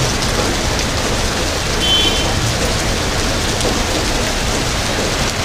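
Heavy rain driven by strong wind, a loud steady downpour. A brief high-pitched tone sounds about two seconds in.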